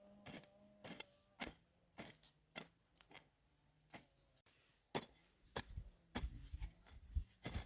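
A series of sharp knocks on wood, irregularly spaced at about one or two a second, with heavier, duller thumps crowding in near the end.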